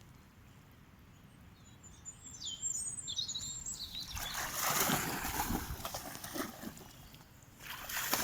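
A small bird chirps a quick run of high notes about two seconds in. It is followed by a louder rush of splashing noise lasting a few seconds as a dog wades through boggy, muddy water after a thrown stick.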